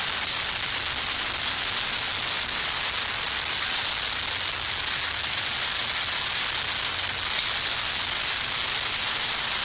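Steady hiss of small homemade alcohol stoves burning under canteen cups of water, with a few faint ticks.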